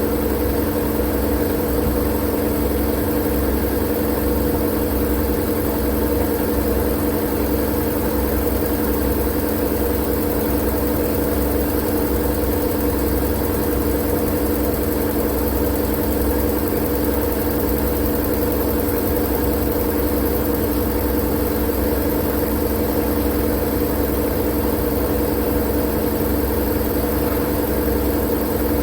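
Steady white-noise drone for sleep, unchanging, with a low hum and rumble under the hiss, like an engine idling.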